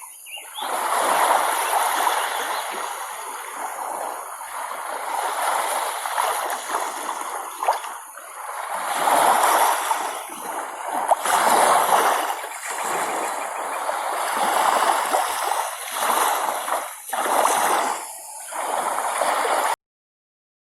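Moving water splashing and rushing, swelling and ebbing in uneven surges every second or two, then cutting off suddenly near the end.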